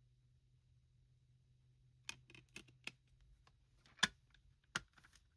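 Plastic CD single case being handled and opened: a few sharp clicks and taps, the loudest about four seconds in, after a couple of seconds with only a low steady hum.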